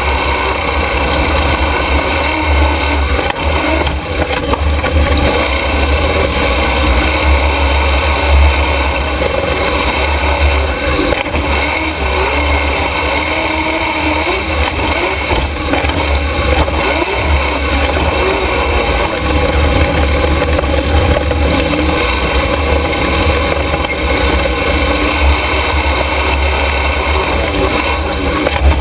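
Super Stock race truck running steadily on track, a continuous loud engine sound over a heavy low rumble with small rises and dips in revs.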